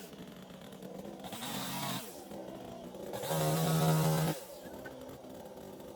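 Two-stroke chainsaw engine dropping to a lower speed, then revved up twice, the second time loud for about a second before falling back sharply.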